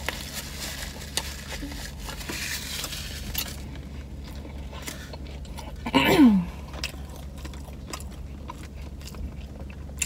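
Close-up biting and chewing of a sub sandwich, with small wet clicks, over a steady low hum. About six seconds in comes a brief 'mm' from the eater, falling in pitch, the loudest sound here.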